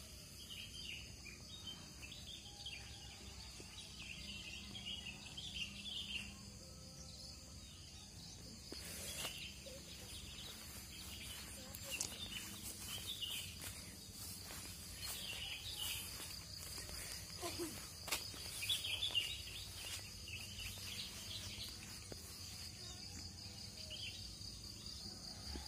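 Faint outdoor ambience: a steady high insect buzz with scattered bird chirps and a few light clicks.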